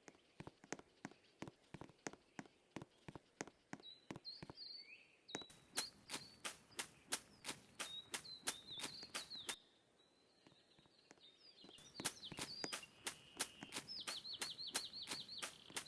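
Small birds chirping, with a quick trill near the end, over a regular run of sharp clicks, about three a second, that stops for about two seconds midway.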